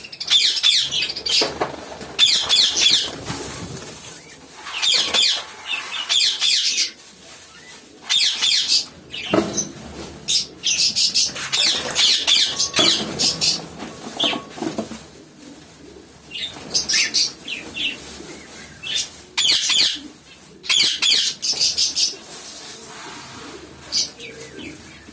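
Aviary birds flapping their wings and calling in repeated bursts a second or two long, with quieter gaps between them.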